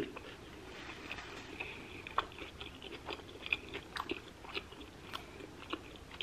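Close-miked chewing of a mouthful of food, with soft, irregular wet clicks and smacks from the mouth.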